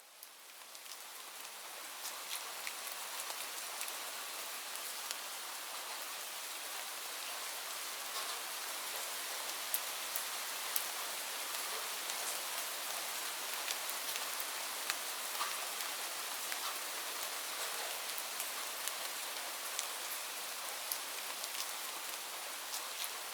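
Steady falling rain: an even hiss with many individual drops ticking through it. It fades in from silence over the first couple of seconds.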